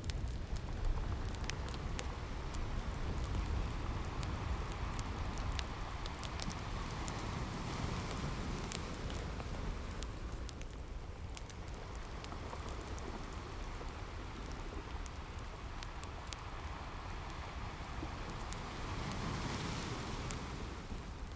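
Ocean surf washing in slow swells that rise and ease, with the sharp crackles and pops of a wood fire scattered over it.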